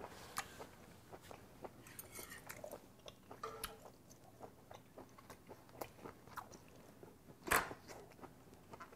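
A man chewing a mouthful of grilled Korean beef (hanwoo chuck flap), faint wet chewing and small mouth clicks close to a clip-on microphone. Near the end comes one louder puff of breath.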